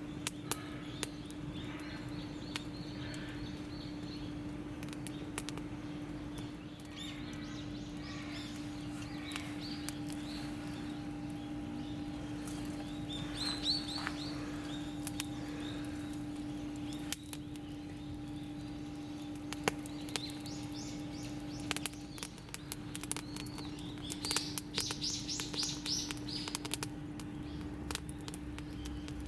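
Birds chirping in short runs of quick notes, with scattered sharp crackles from a wood campfire and a steady hum underneath.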